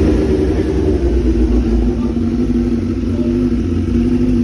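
Suzuki GSX-R1000 inline-four engine idling steadily through an SC-Project short muffler, freshly started.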